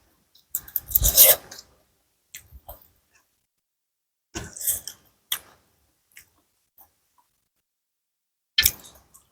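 Eating sounds close to the microphone: several short bursts of slurping and mouth noise with pauses between them, the loudest about a second in.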